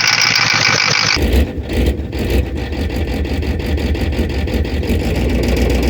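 A loud hiss for about the first second, cut off abruptly, then the Ford 6.9 IDI V8 diesel running with a fast, even clatter. It sounds rough.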